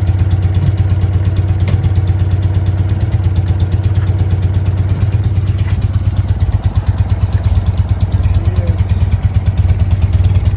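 1968 BMW R60/2's air-cooled flat-twin engine idling steadily with an even pulsing beat, just after a cold start on tickled carburettors.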